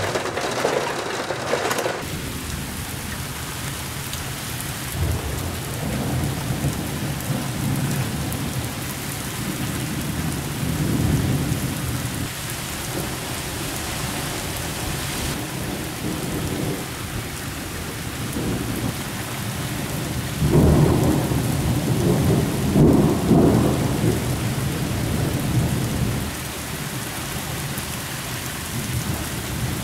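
Heavy rain falling steadily during a thunderstorm, with rolling thunder rumbling low underneath. The thunder swells in several waves and is loudest from about two-thirds of the way in, for several seconds.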